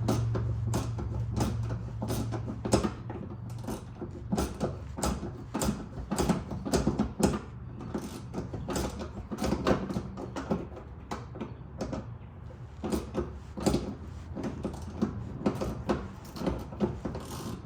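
Irregular clicks and knocks from hands working tools and metal parts on a car, with a low steady hum that fades out in the first few seconds.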